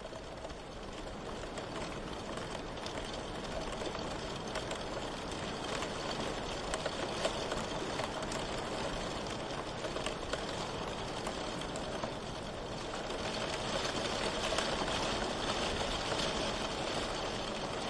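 Steady rain: an even hiss with scattered small drop ticks, swelling up over the first couple of seconds and then holding level.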